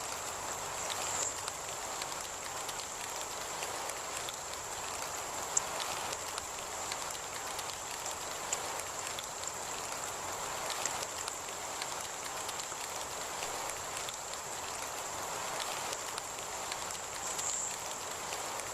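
Heavy rain falling steadily, with scattered drop taps, under a thin, steady, high-pitched tone that swells briefly a few times.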